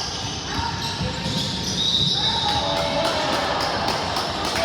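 Basketball game sounds in a gym: a ball bouncing on the hardwood court in repeated knocks, with short high squeaks and voices in the background of the echoing hall.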